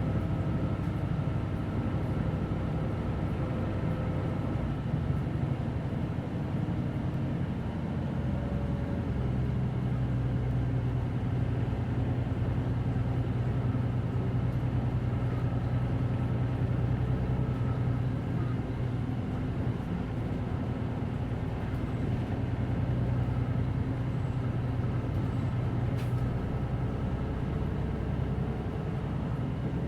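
Hino Blue Ribbon City Hybrid city bus under way, heard from inside the cabin: a steady low engine and drivetrain drone, holding one pitch through most of the middle, with a single short click near the end.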